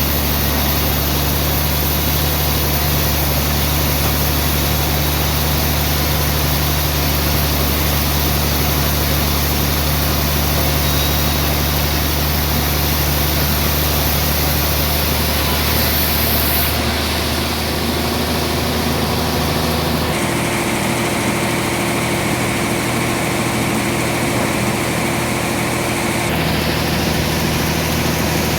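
Sawmill machinery running with a steady low hum. Its tone shifts abruptly three times in the second half.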